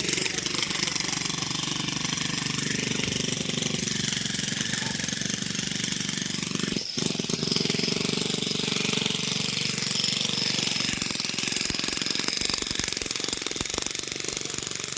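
Passenger train running at speed: a fast, steady rattle of wheels on rail joints and shaking carriage, with rushing wind.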